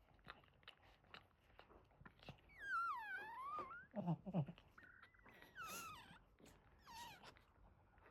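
Newborn Boston terrier puppy squealing, three high cries that slide down and back up in pitch, over small wet clicking sounds. A couple of low thumps come about four seconds in.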